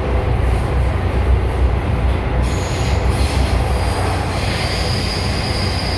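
MTR M-Train running with a steady low rumble; about two and a half seconds in, a high, steady wheel squeal sets in and holds.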